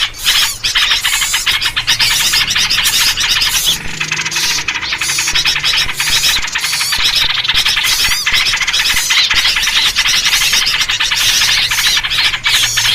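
A dense chorus of small birds chattering and calling noisily without a break, led by yellow-vented bulbul (trucuk) calls. The calls are quick and overlapping and keep up a steady loudness.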